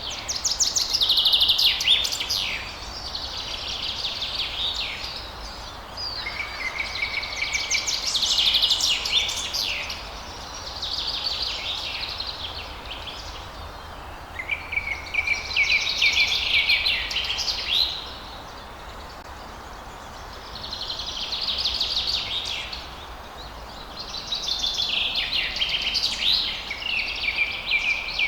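Songbirds singing at dawn: bursts of fast, high chirping and trills a couple of seconds long, one after another every few seconds, over a steady low background hiss.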